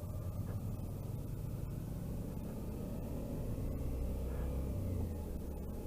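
Motorcycle engine running with road rumble on the move, a steady low drone that grows a little louder about three and a half seconds in.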